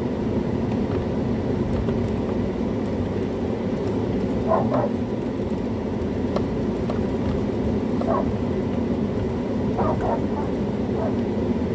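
A few short dog barks, spaced a second or more apart, over a steady low rumble.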